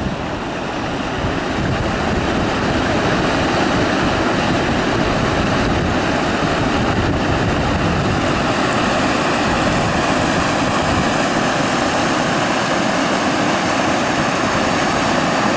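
Swollen, fast-flowing river rushing in a steady loud noise, with wind buffeting the microphone as a low rumble that eases about halfway through.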